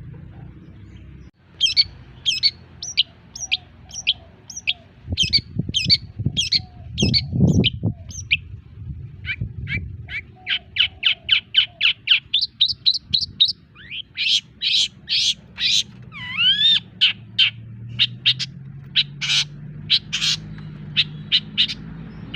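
Long-tailed shrike (cendet) calling in long runs of short, sharp, high notes, a few a second at first and then in faster chattering runs, with one gliding call about three quarters of the way through. A low rumble sits under the calls for a few seconds near the middle.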